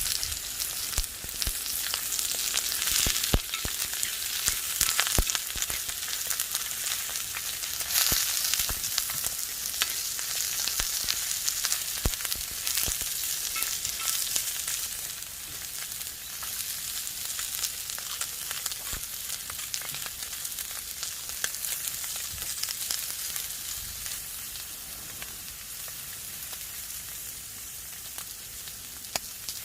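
Beef ribeye frying on a hot griddle, with a steady sizzle and many sharp pops of spitting fat. The sizzle eases off a little in the second half.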